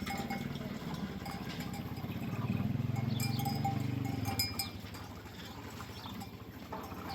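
Sheep bells clinking over a low, pulsing rumble that swells about halfway through and drops away after about four and a half seconds.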